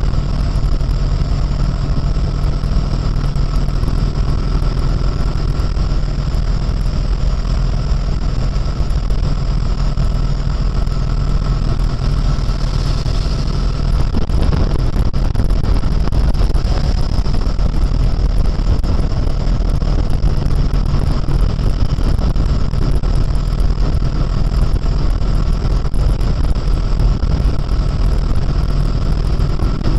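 Harley-Davidson Road King's air-cooled V-twin engine running steadily at highway cruising speed, heard from on board with wind and road noise, a little louder from about halfway through.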